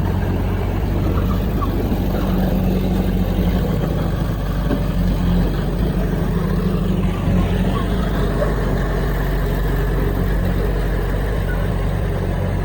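Heavy construction-machine diesel engine running steadily at a constant pitch.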